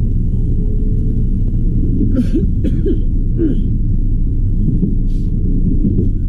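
Steady low rumble of a train in motion, with four short, sharp noisy sounds in the middle.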